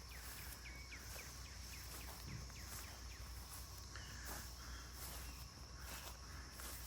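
Insects droning steadily at a high pitch outdoors, with a scatter of faint, short downward chirps.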